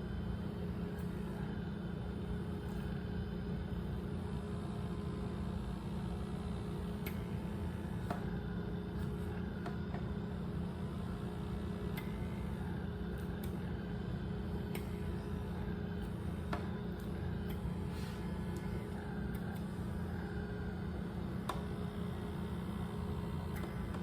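Small electric pore vacuum (blackhead suction device) running with a steady hum, with a few faint clicks scattered through it.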